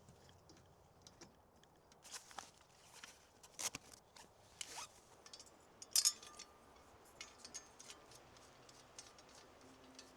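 Irregular small clicks, scrapes and rustles of objects being handled, with one sharper click about six seconds in that leaves a brief faint ring.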